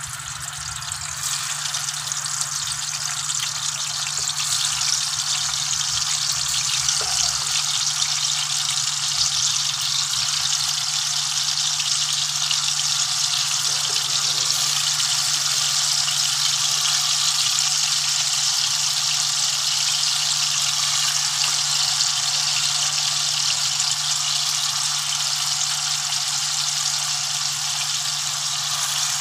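Marinated paneer cubes sizzling as they fry in hot oil in a pan. The sizzle builds over the first few seconds, then holds steady.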